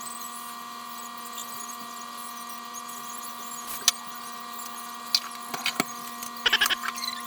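A steady hum with a few scattered clicks and clinks, the last of them in a short cluster near the end.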